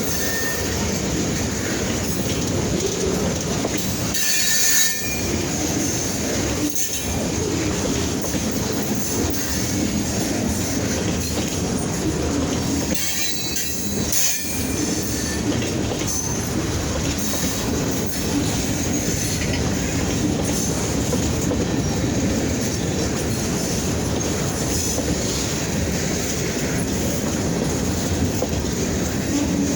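Freight train rolling past: steady wheel and rail noise with clatter over the rail joints, and a couple of brief high wheel squeals.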